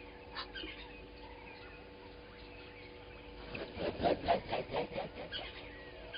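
A harsh rasping animal call about three and a half seconds in: a quick run of about eight strokes over two seconds that grows louder, then fades. A few brief bird chirps come before it.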